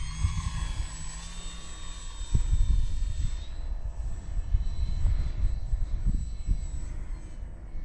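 E-flite Valiant 1.3M RC plane's brushless electric motor and propeller whining as it flies past, the whine rising in pitch over the first few seconds and then fading. Wind buffets the microphone throughout.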